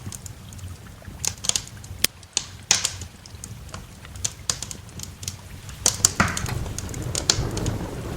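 Wood fire crackling, with irregular sharp pops and snaps. From about six seconds in, a low rumble of thunder and the hiss of rain build up beneath it.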